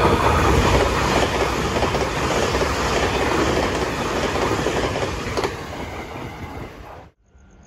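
A Taiwan Railway train passing close by, its wheels running over the rails, the noise slowly fading as it moves away and then cutting off suddenly about seven seconds in.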